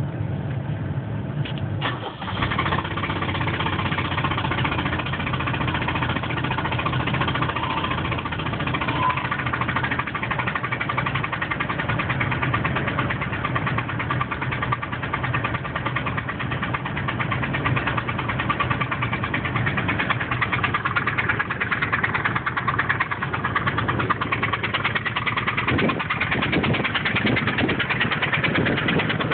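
Car engine running at idle with a loud, fast, even knocking or ticking beat; it gets louder about two seconds in. The owner cannot tell whether it is an exhaust leak at the engine, where the exhaust may have come loose, or a really bad rod knock.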